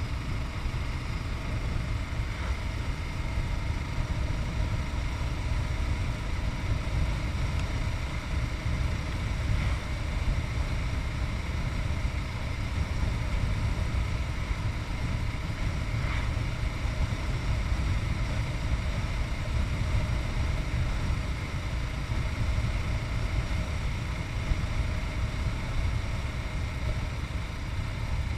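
Yamaha MT-03's 660cc single-cylinder engine running at a steady pace on the road, with a heavy low rumble and no revving up or down.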